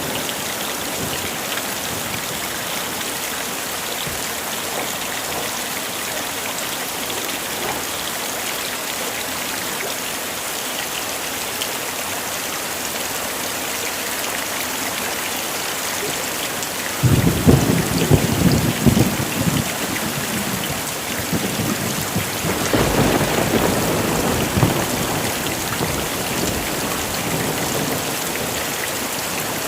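Heavy rain falling steadily, with a sudden crack of thunder about halfway through that rumbles on for a few seconds, and a second roll of thunder a few seconds later.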